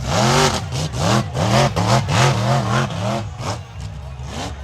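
Mega truck's engine revved in quick, repeated throttle blips, its pitch rising and falling about twice a second.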